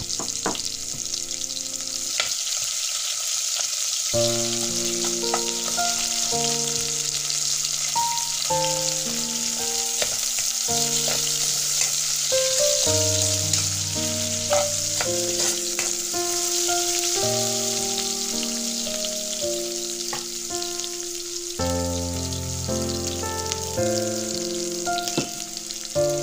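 Sliced onion and ginger sizzling steadily as they sauté in oil in an aluminium pot, with a few sharp clicks. Soft background music with held notes plays underneath.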